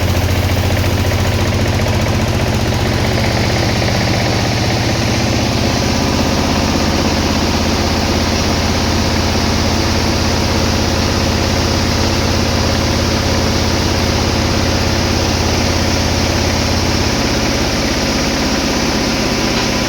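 Sawmill machinery running with a steady engine-like drone and a strong low hum. The lowest part of the hum drops away near the end.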